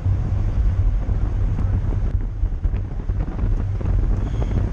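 Wind buffeting the microphone of a bicycle moving at race speed, a steady low rumble.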